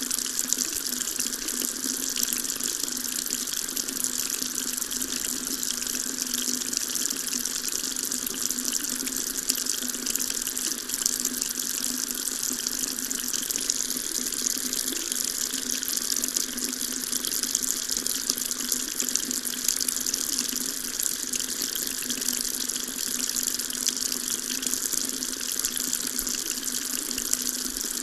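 Water tap running steadily, a continuous stream splashing into a sink.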